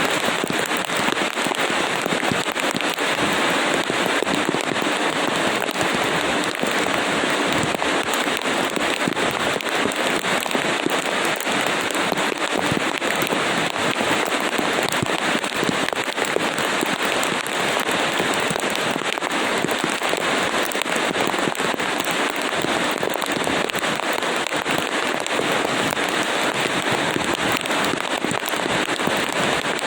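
Rain falling steadily: an unbroken, dense crackle of many drops.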